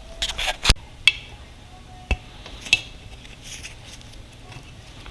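Metal tools and small motorcycle parts clinking and knocking together as they are handled: a quick run of sharp clinks in the first second, the loudest among them, then two more single clinks, some with a short metallic ring.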